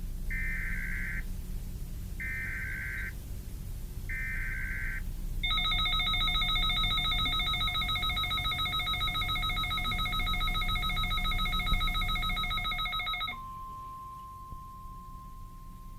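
Emergency Alert System SAME header: three short buzzing data bursts about a second apart. Then about eight seconds of a steady multi-tone alert signal with a fast pulse. Near the end it switches to a single steady tone near 1 kHz, the NOAA Weather Radio warning tone, announcing an incoming warning.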